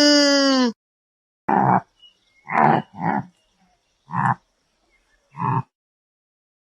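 Animal calls: one long, evenly pitched call ends about a second in, then five short, rough calls follow at intervals of roughly a second.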